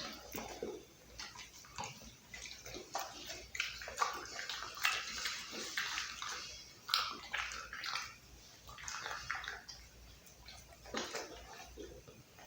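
A pit bull chewing raw chicken: wet, irregular smacking and clicking bites, busiest in the middle.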